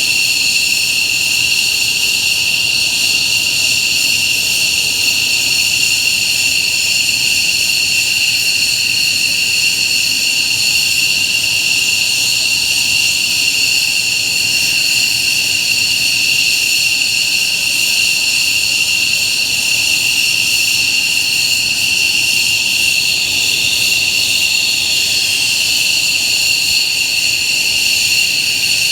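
F-15J fighter's twin turbofan engines running steadily on the ground, a high-pitched whine over a steady rushing noise.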